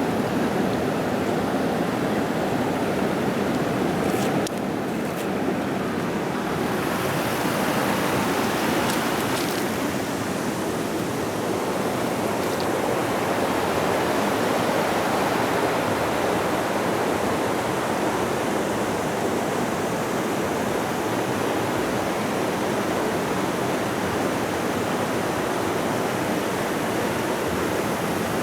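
Creek water rushing steadily over rocks, a dense, even rush.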